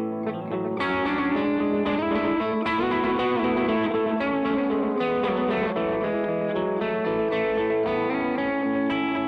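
Siam Custom electric guitar played through a DemonFX reverb and delay pedal: single picked notes, a new one every half second or so, ringing on and overlapping into a continuous wash of echoes and reverb.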